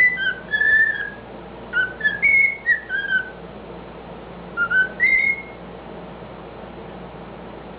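Cockatiel whistling a mimicked tune in clear, sliding notes, in three short phrases; it stops about five and a half seconds in.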